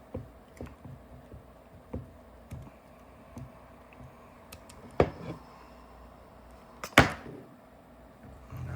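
Handling noises from working on a Planet Eclipse LV2 paintball marker during reassembly: scattered light clicks and taps, with two sharper knocks about five and seven seconds in.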